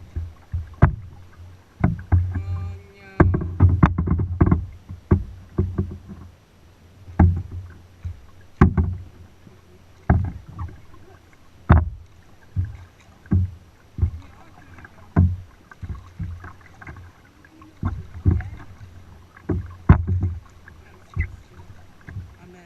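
Kayak paddling: a paddle stroke every second or two, each a sharp knock and splash with a low thud, over water lapping against the boat.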